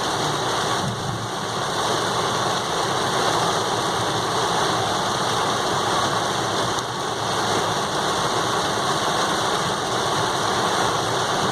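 Heavy rain with a vehicle's engine running underneath, an even, steady hiss throughout.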